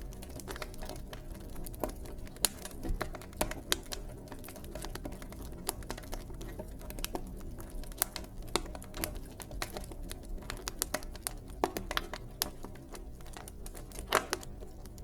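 Wood fire in a fireplace crackling and popping: irregular sharp snaps over a soft steady low rumble of flames, with a louder pop about fourteen seconds in.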